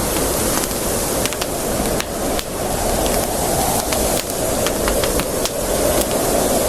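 Campfire burning with a steady hiss, broken by frequent sharp, irregular crackles and pops.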